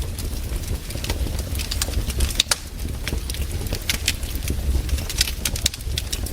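Wood campfire crackling, with irregular sharp pops and snaps several times a second over a low, steady rumble.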